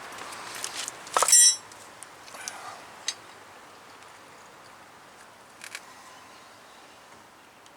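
A single hard clink about a second in, ringing briefly with a bright tone, followed by a few light taps and knocks as hard objects are handled.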